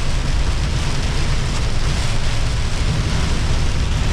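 Heavy storm rain and wind beating on a semi truck's cab, over the steady low rumble of the truck driving, heard from inside the cab.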